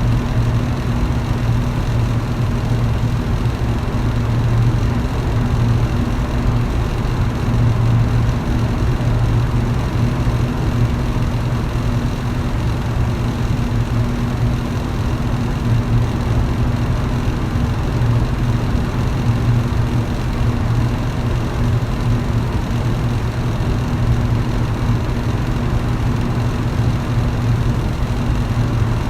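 Electric fan running steadily: a constant low motor hum under an even whoosh of moving air, with no change in speed.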